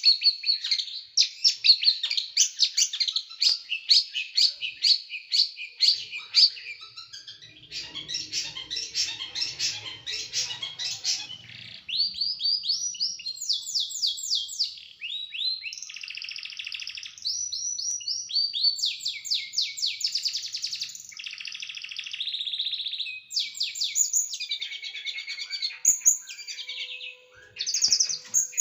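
Small songbird singing a fast 'tembakan' song: rapid, sharp repeated notes for the first several seconds, then denser chatter, then runs of quick sweeping notes and trills.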